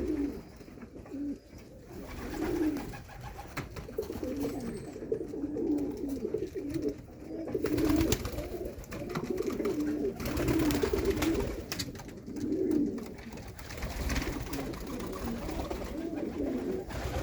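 Several young Mulemans racing pigeons cooing over one another, a continuous low warbling, with a few louder noisy rushes, about 8 and 11 seconds in and near the end.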